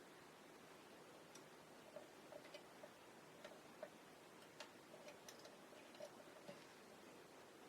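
Faint, irregular light clicks and ticks, about a dozen spread over several seconds, over quiet room hiss.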